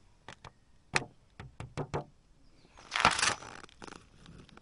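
Objects being handled: a series of light clicks and knocks, then a brief, louder rustling scrape about three seconds in.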